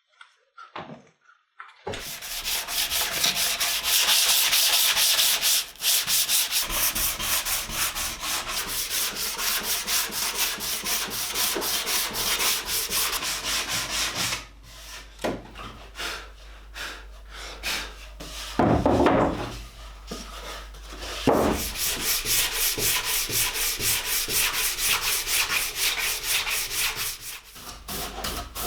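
Sandpaper rubbing back and forth on wood in rapid strokes: the bread cutter's wooden parts being sanded smooth. It starts about two seconds in, eases off for a few seconds past the middle, then carries on.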